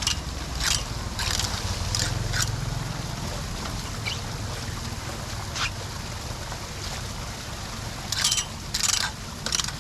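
Floodwater sloshing and splashing at a clogged street drain over a low steady rumble, broken by several short splashes or scrapes, a cluster of them near the end.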